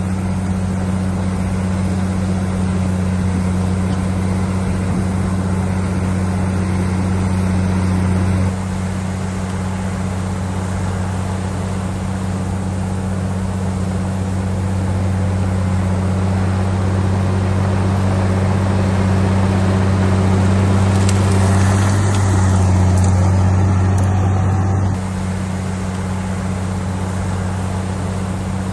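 Heavy diesel engine of earthmoving machinery running steadily with a deep drone. The sound changes abruptly about eight seconds in and again about 25 seconds in.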